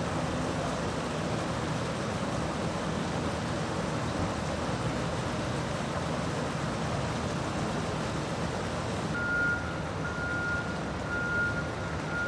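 A truck's reversing beeper starts about nine seconds in, one steady tone repeating at an even pace, under a second apart, over a steady noise of running vehicles and flowing water.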